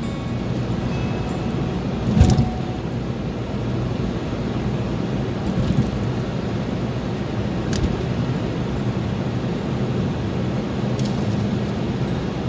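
Car driving, with a steady low engine and road noise and a few short thumps, the strongest about two seconds in.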